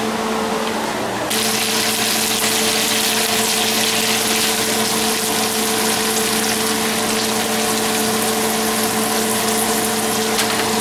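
Asparagus sizzling in hot olive oil and butter in a frying pan as the pan is shaken on the stove, the sizzle growing louder about a second in. A steady hum runs underneath.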